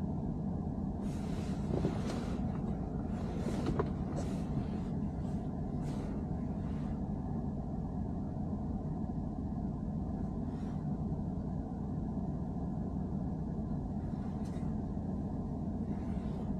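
BMW 3 Series (E90) being driven, a steady low rumble of road and engine noise with short, sharp clicks or rattles at irregular intervals, clustered in the first few seconds: the abnormal noise the owner is chasing.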